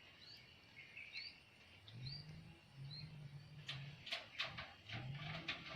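Caged birds calling: a short high chirp about once a second, low cooing notes, and a run of light clicks and taps near the end.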